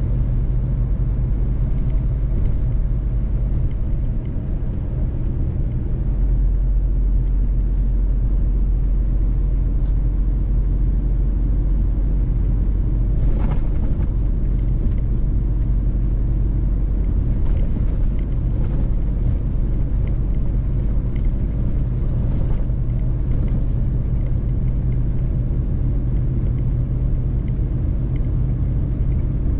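Mercedes-Benz truck's diesel engine and road rumble while driving, a steady low drone that deepens and strengthens about six seconds in.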